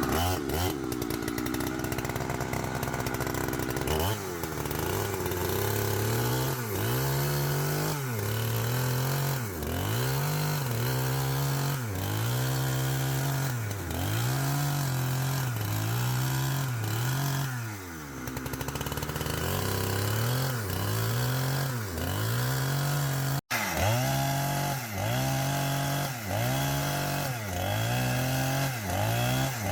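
Chainsaw cutting into wood. The engine's pitch dips under load and climbs back in a steady rhythm, roughly once a second, as the bar is worked through the cut.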